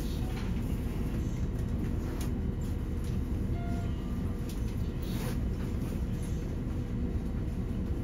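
Steady low rumble inside the car of an N700S Kamome shinkansen as it runs slowly into its terminal station, with a few brief sharp clicks from the running gear.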